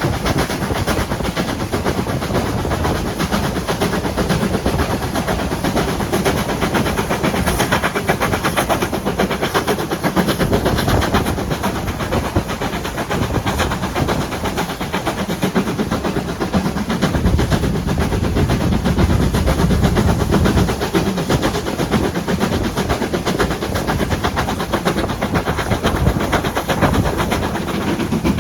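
Train running along the rails, a steady rumble full of rapid rattling and clicking, heavier in the low end from about 17 seconds in.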